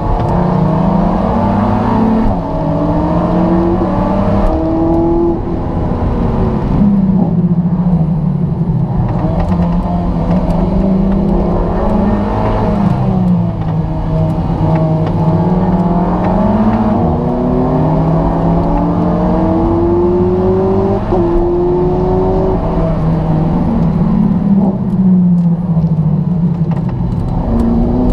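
Alfa Romeo 4C's turbocharged four-cylinder engine heard from inside the cabin at track pace, its pitch climbing under full throttle and dropping sharply at each upshift, then falling away under braking, over and over through the lap.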